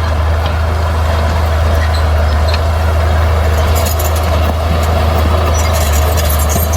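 Heavy diesel earthmoving machinery running steadily with a deep, even engine hum, with faint rattling and clicking from about four seconds in.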